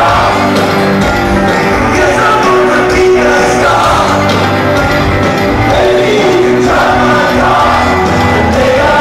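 Live rock band playing at full volume with a sung lead vocal over guitars, bass and drums, in a large hall.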